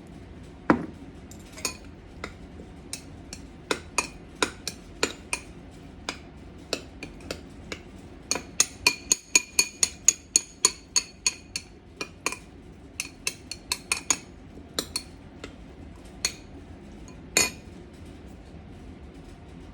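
Metal kitchen utensils tapping and clinking on dishes: a string of sharp, slightly ringing clinks, coming quickest for a few seconds in the middle and then spacing out again.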